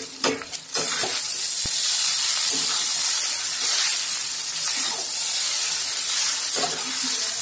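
Chowmein noodles with vegetables and scrambled egg sizzling in hot oil in a steel wok, a steady hiss, as they are stirred and tossed with a spatula. A few sharp spatula strokes against the wok come in the first second.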